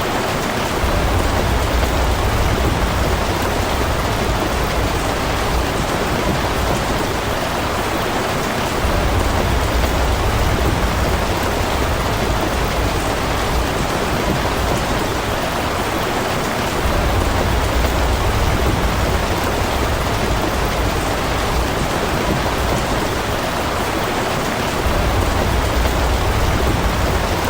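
Steady rain falling. A low rumble underneath swells up about every eight seconds.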